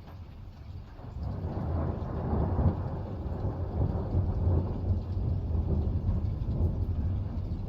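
Thunder rumbling: a long, low roll that swells about a second and a half in and keeps rolling.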